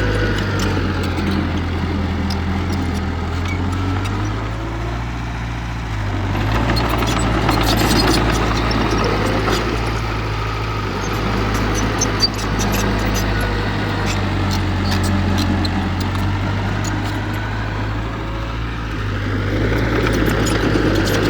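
Heavy diesel engine of earthmoving machinery running steadily, its note swelling louder twice as it works under load. Scattered light clicks and clatter sit over it, with one short sharp knock about halfway through.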